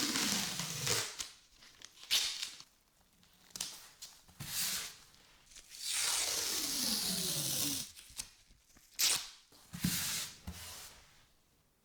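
Hand rubbing or sanding strokes on the knife, several short ones and two long, drawn-out ones; during each long stroke a squeak falls in pitch.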